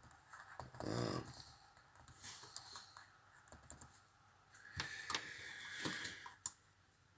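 Faint, scattered clicks and taps of a computer keyboard, with a denser run of clicks near the end.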